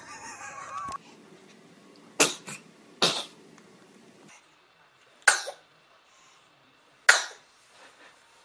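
A baby sneezing four times, each sneeze short and sharp, spaced one to two seconds apart.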